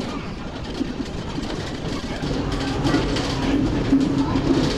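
Passenger train rolling along the track, heard from on board: a steady rumble of the cars with frequent clicks of the wheels on the rails.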